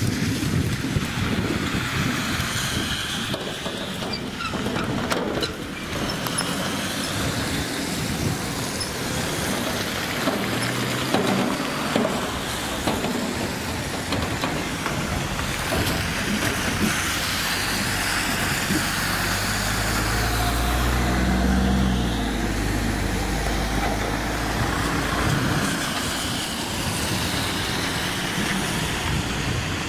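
A diesel passenger train passing over the level crossing, with rumbling wheel and track noise throughout. The engine's low drone swells to its loudest about twenty seconds in, then eases.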